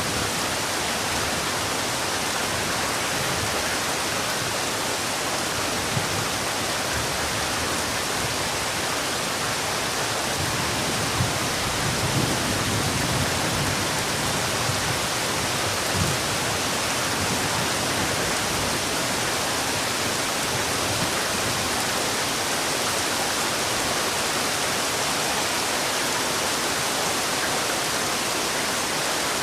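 Heavy rain falling steadily as an even hiss. A few faint low thuds come between about 11 and 16 seconds in.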